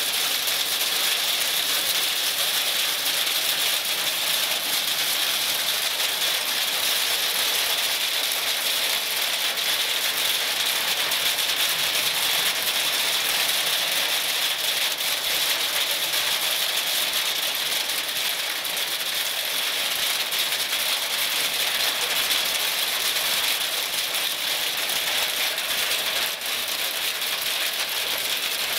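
Sudden heavy downpour of rain and hail, a dense steady hiss of water and ice pelting onto the shelter roof and wet pavement.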